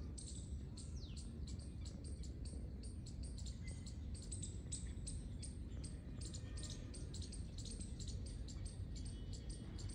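Birds chirping faintly, many short high chirps in irregular quick succession over a steady low background noise.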